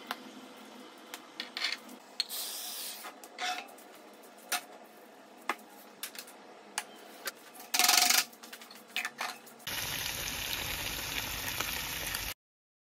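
Seasoning shakers rattled and set down with scattered taps and clicks on a countertop, with a loud short rustle about eight seconds in. Then fish fillets sizzle steadily in oil in a frying pan for a few seconds, cutting off suddenly.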